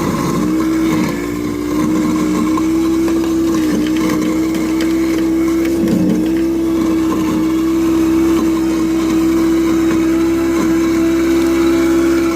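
Garbage disposal motor running with a steady hum, its pitch dipping briefly several times.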